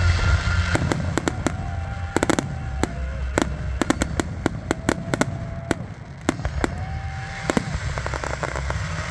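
Fireworks finale: aerial shells bursting in rapid volleys, many sharp bangs in quick succession over a steady low rumble.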